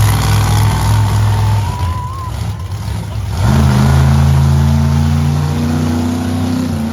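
Monster truck engine running loud. It eases off about two seconds in, then revs up sharply at about three and a half seconds and holds high until it drops near the end.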